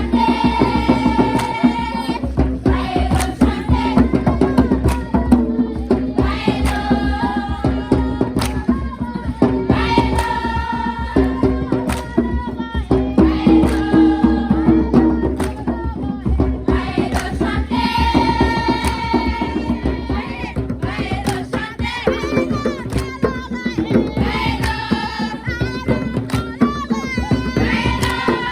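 Voices singing a song in short repeated phrases over steady hand-drum beats.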